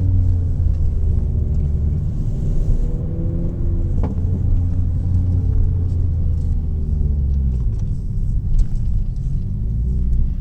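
Straight-piped exhaust of a 2019 Toyota Yaris droning steadily while driving, its pitch easing down a little about three-quarters of the way through. A single sharp click about four seconds in.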